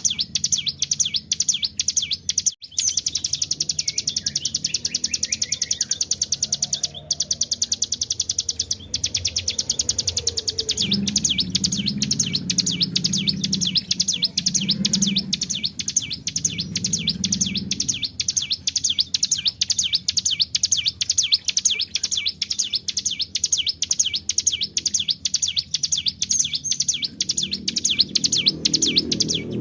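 Ciblek gunung (a prinia) singing a long, unbroken, rapid trill of high, sharply repeated notes: the fast machine-gun-like 'bren' song. A softer, lower sound sits underneath for a few seconds about a third of the way in.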